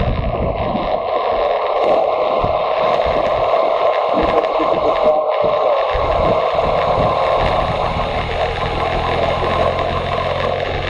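Motorcycle on the move: wind rushing over the microphone, with the engine running underneath and its note holding steady over the last few seconds.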